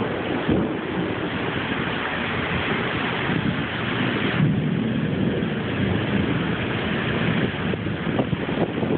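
Heavy thunderstorm downpour: steady pouring rain with thunder rumbling underneath, its hiss easing slightly about halfway through.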